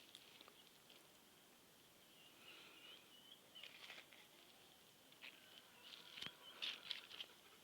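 Faint, short high-pitched animal chirps and squeaks, scattered and growing busier near the end, with a single click about six seconds in.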